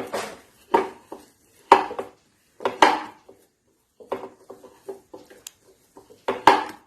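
Kitchen bowl and utensils being handled: a series of sharp clinks and knocks with softer clicks between them, the loudest near the end.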